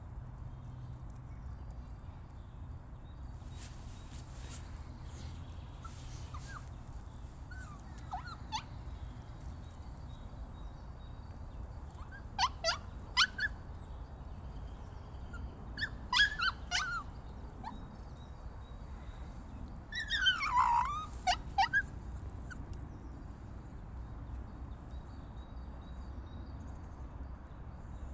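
Dog whining: three bouts of high, complaining whines that fall in pitch, a few seconds apart, the last the longest.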